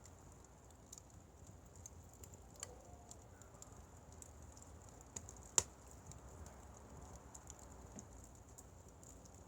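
Wood fire crackling faintly: scattered small irregular ticks and pops, with one sharp, louder pop about five and a half seconds in.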